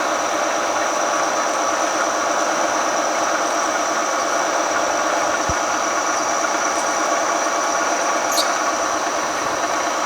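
Milling machine running steadily while drilling into a flame-hardened steel crankshaft, a dense mechanical noise with a constant high-pitched whine over it.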